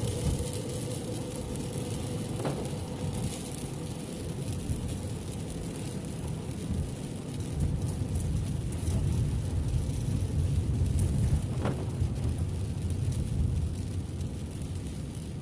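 Steady car cabin noise while driving in the rain: a low road and tyre rumble, with the hiss of rain and a wet road over it, heard from inside the car.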